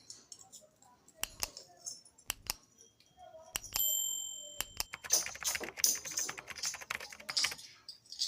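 Metal clipper blade parts being handled: a few separate hard clicks, a short metallic ring a little under 4 s in, then a quick run of rapid clicking and crackling.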